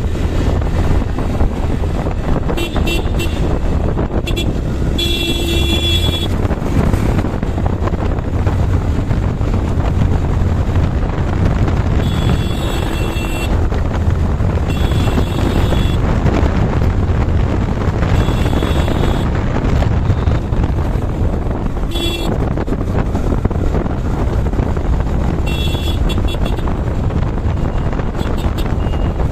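Steady wind and engine noise from a motorcycle on the move, broken by short vehicle-horn honks about eight times.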